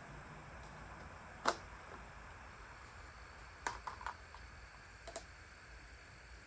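Several short, sharp clicks and taps over a low steady hum: a loud single one about a second and a half in, a quick run of three or four near four seconds, and two more close together about five seconds in.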